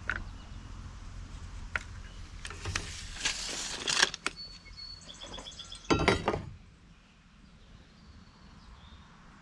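A few sharp hammer knocks and handling clatter while nailing 1x4 wooden purlins onto rafters, the loudest cluster about six seconds in, then it goes quieter. Birds chirp in the background about halfway through.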